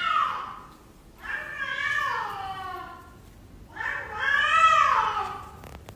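A cat meowing: three long, drawn-out meows, each sliding down in pitch at the end.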